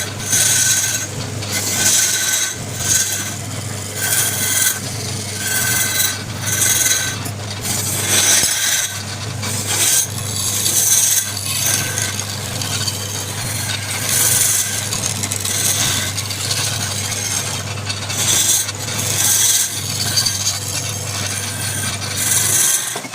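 Wood lathe running with a steady motor hum while a turning tool cuts the spinning wood in repeated hissing scrapes, about one a second. The lathe motor stops near the end.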